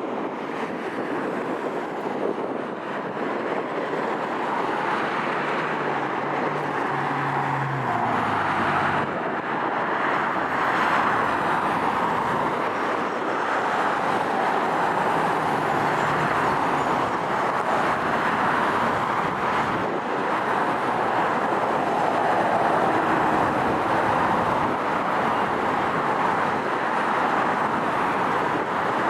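Steady jet engine noise from a Boeing 757-200 holding in position on the runway before takeoff clearance. The noise grows a little louder over the first ten seconds or so, then holds.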